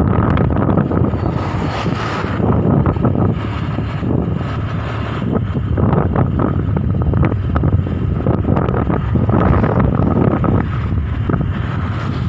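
Wind buffeting the microphone over a steady low rumble, the way it sounds on a moving open vehicle.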